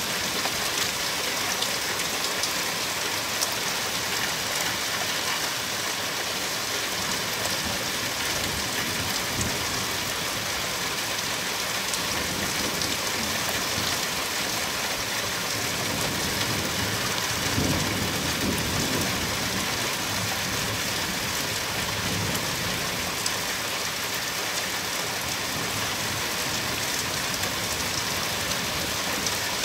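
Steady rain falling hard during a thunderstorm, an even hiss of drops on surfaces, with a low rumble of thunder about halfway through.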